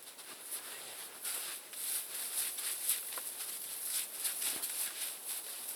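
Footsteps crunching and rustling through dry forest litter and twigs, an irregular run of several steps a second.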